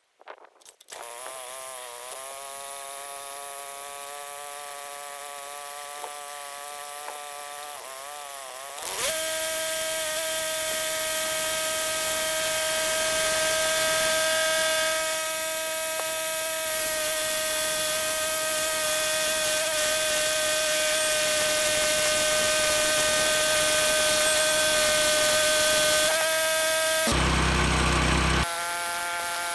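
Small gasoline engine of an HM130 Woodland Mills sawmill running: an unsteady, wavering idle, then throttled up about nine seconds in to a louder, steady high-speed whine. A brief burst of rough noise breaks in near the end.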